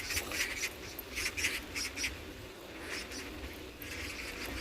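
A cyclist breathing hard while pedalling, short hissy breaths every half second to a second, over a low wind rumble.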